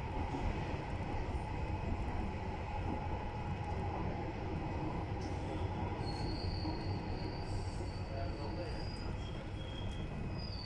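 Electric passenger train running along its rails, heard from inside the carriage: a steady rumble of wheels on track. A thin, high wheel squeal comes in about six seconds in, fades, and returns near the end.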